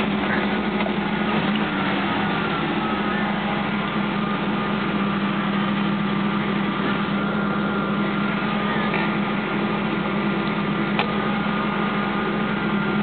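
1979 Hurst/Olds V8 running steadily under throttle while the car drives, before the automatic transmission kicks down. A single short click sounds near the end.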